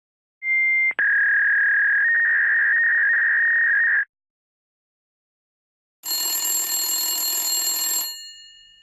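A steady telephone-line tone, a brief higher beep then a click and about three seconds of a lower steady tone, thin as if heard through a phone earpiece. After a two-second gap, a telephone bell rings once for about two seconds and fades away.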